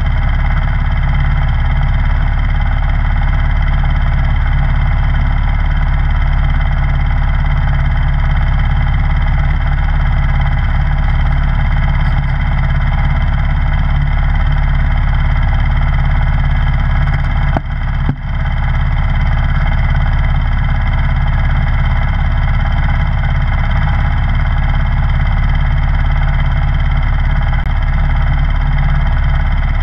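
Snowblower engine running steadily at a constant speed, a loud drone. Its sound briefly drops out for a moment a little past halfway.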